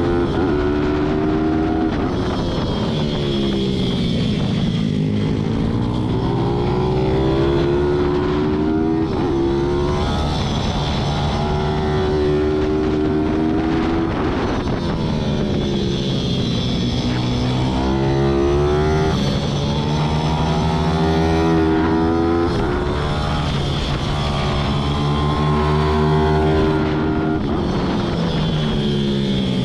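Racing pit bike's single-cylinder engine at full throttle. The revs climb hard on each straight, then drop off into the corners, over and over.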